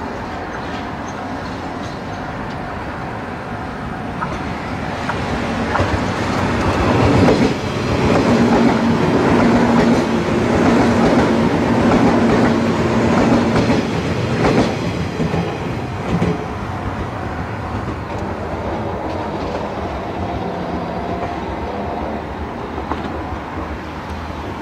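A JR West Series 117 electric train, the WEST EXPRESS Ginga, approaches and passes close by. It grows louder from about four seconds in and is loudest for several seconds as the cars go by, with wheels knocking over the rail joints. It then falls back to a steady, lower level.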